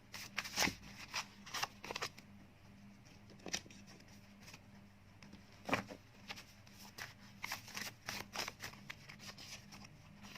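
Tarot and oracle cards being handled on a table: irregular light taps, clicks and slides, some in quick clusters, over a faint low hum.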